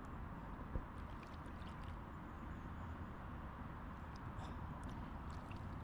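Faint, steady outdoor ambience of light rain and lake water lapping, with scattered soft ticks and a low rumble; one small knock about three-quarters of a second in.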